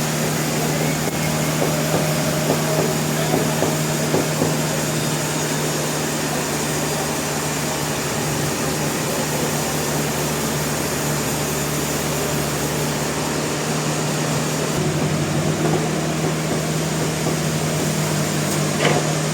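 Sawmill machinery running steadily: a constant motor hum under an even, loud mechanical noise, with no distinct cuts or knocks.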